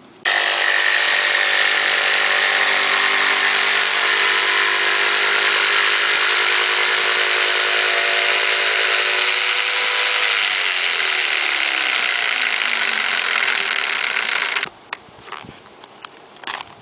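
Electric power saw running at full speed with a steady motor whine, its pitch sinking over the last few seconds before it stops abruptly.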